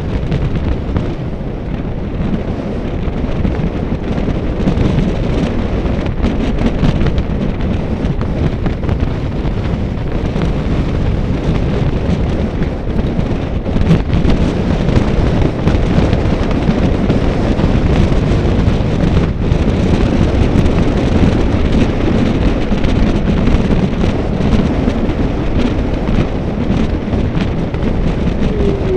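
Wind buffeting the microphone: a loud, steady low rumble with a few faint ticks.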